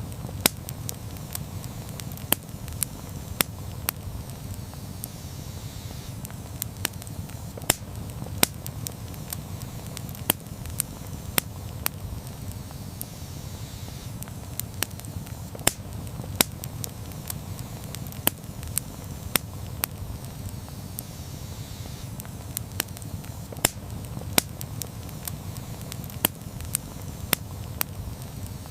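Campfire burning: wood crackling and popping in sharp snaps at irregular intervals, a few a second, over a steady low rumble of flames.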